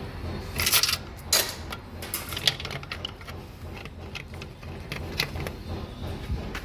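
Irregular metallic clinks, clicks and short scrapes of hand tools and engine parts being handled during timing chain removal, with the loudest cluster just under a second in.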